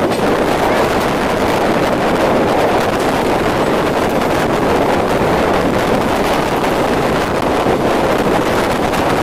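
Rajdhani Express passenger train running: a steady rumble and rush of moving air, with wind buffeting the microphone.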